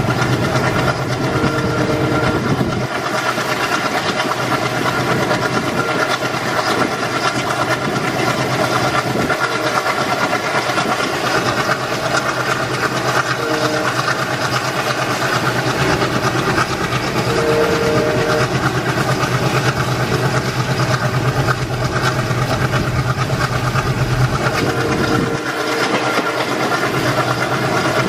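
A train running on the rails with steady, loud wheel and track noise and a steady hum.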